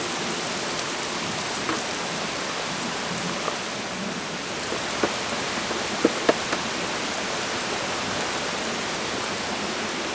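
Steady rain falling, with a few louder single drops or taps, the strongest two close together a little after six seconds in.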